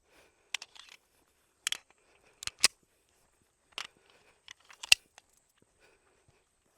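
Handling noise from a cleared pistol and its empty magazine: a string of short, sharp metallic clicks and clacks spread over several seconds, the loudest about five seconds in.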